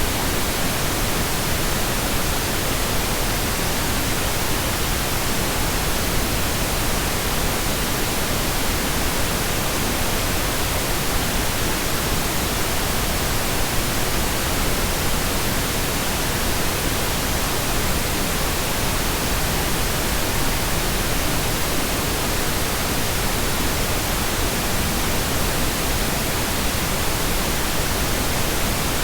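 Steady pink noise: an even hiss across all frequencies at a constant level, with nothing changing.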